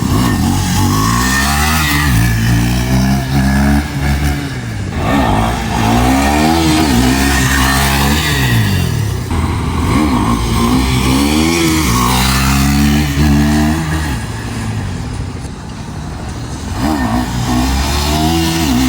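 KTM Duke 390 single-cylinder motorcycle engine revved hard, its pitch climbing and then falling back about five times as the throttle is opened and shut for wheelie attempts.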